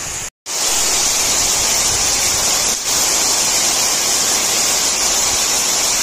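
Heavy tropical rain falling steadily, with a stream of runoff pouring off a roof edge onto the ground. The sound cuts out for a moment about half a second in.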